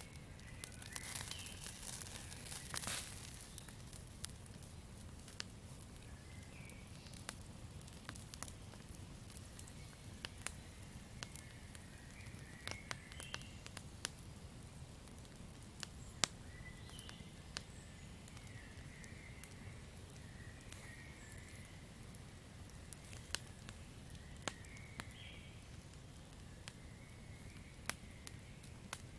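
Campfire crackling, with sharp irregular pops over a steady low rumble. The crackles come thickest about one to three seconds in. Faint short chirps sound now and then in the background.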